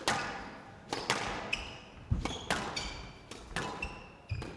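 A squash rally: the ball is struck by rackets and smacks off the court walls about every half second, each hit echoing briefly. Shoes squeak sharply on the court floor as the players move.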